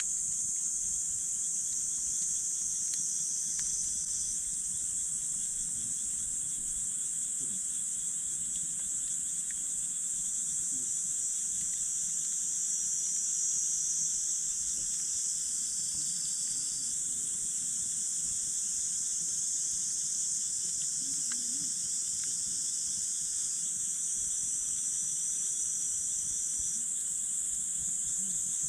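A steady, high-pitched chorus of night insects, with a few faint pops from a wood campfire.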